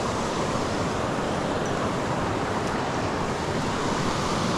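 Steady rush of creek water pouring over a small waterfall, an even hiss with no breaks.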